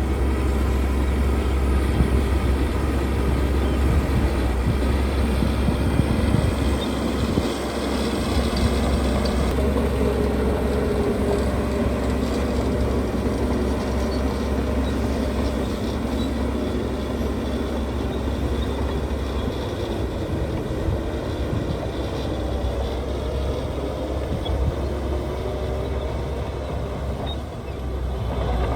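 Heavy earthmoving machinery with diesel engines running steadily under work, with a deep rumble.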